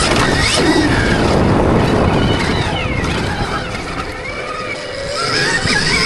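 Dirt bike ridden around a motocross track: a high whine wavers up and down with the throttle over rushing wind and track noise. It eases off briefly near the middle, then picks up again.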